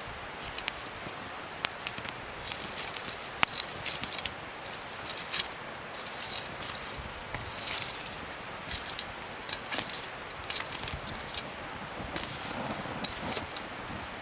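Wood fire crackling, with many irregular sharp pops and snaps over a steady hiss.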